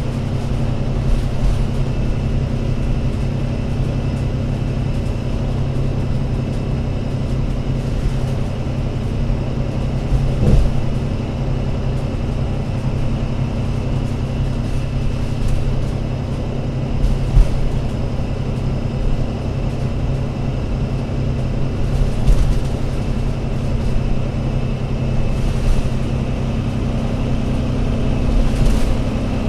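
Diesel engine of an Alexander Dennis Enviro500 MMC Euro 6 double-decker bus running at a steady pace, with a low, even hum. A few brief knocks sound over it, one about ten seconds in and another about seventeen seconds in.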